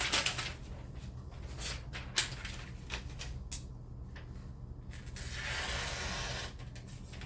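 A sheet of paper crackling as it is handled, then a freshly sharpened knife blade slicing through it with a steady hiss lasting about a second and a half, a test of the edge's sharpness.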